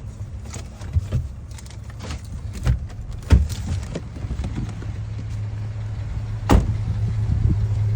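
2006 Chevy Silverado 1500's engine idling, a steady low hum from the exhaust, with a few short knocks and clicks over it; the loudest come about three and a half and six and a half seconds in.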